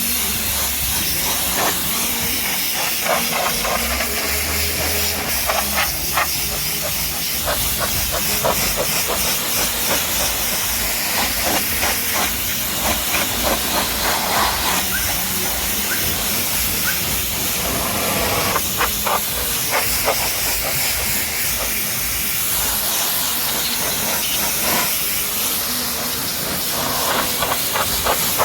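High-pressure water spray from a pressure washer hissing steadily as it hits a car's body, with irregular small splashing clicks throughout.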